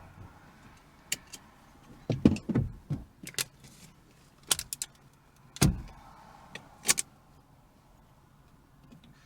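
Scattered sharp clicks and knocks, with a few dull thumps about two and a half and six seconds in.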